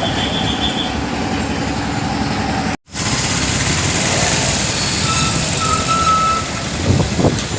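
Loud outdoor traffic noise of vehicles on a busy street, with short electronic beeps. The sound drops out for an instant about three seconds in.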